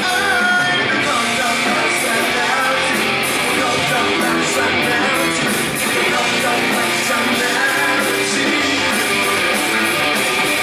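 Live rock band playing, with electric guitar and singing.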